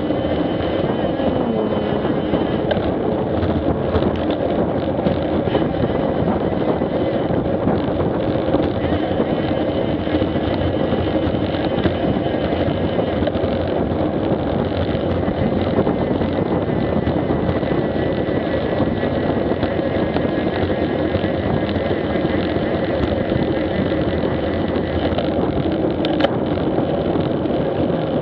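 Steady riding noise picked up by a bike-mounted action camera: wind buffeting the microphone over a constant road and machine drone, with a single click about 26 seconds in.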